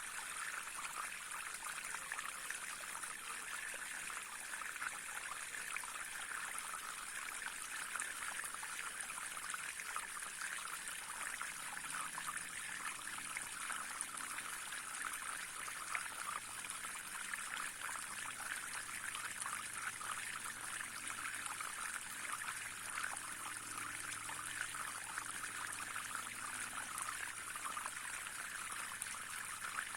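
Brook flowing, a steady, even rush of trickling water.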